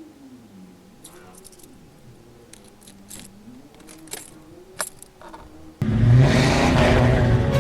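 A faint engine-like hum rising and falling in pitch, with scattered light clicks, then loud music cuts in suddenly near the end.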